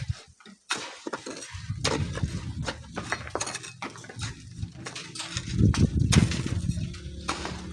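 Hand sand-mining work: a steel shovel scraping and striking in sand and gravel, giving a string of irregular knocks and metallic clinks.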